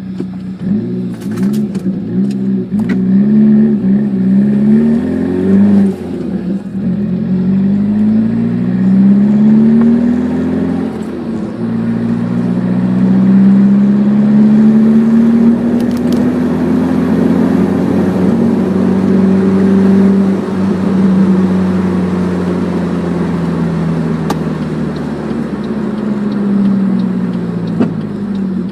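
The 1996 Saab 900 SE Turbo's turbocharged four-cylinder engine through its Cherry Bomb dual side-exit exhaust, driving through the gears. The pitch climbs in several short pulls at first, then in longer climbs, holds steadier at cruise and slowly falls off near the end.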